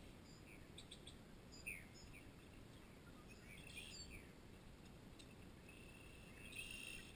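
Near silence: faint birds chirping now and then over a low, steady background noise, with a short buzzy call near the end.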